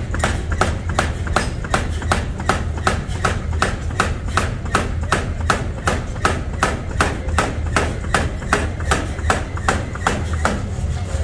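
Machine forging hammer striking steel in quick, even strokes, about four a second, over a steady low hum.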